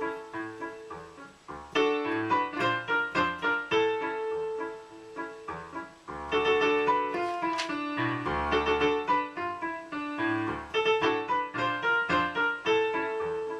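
Piano backing track playing an instrumental tune of quick, separate notes, thinning out about halfway through before picking up again with fuller chords.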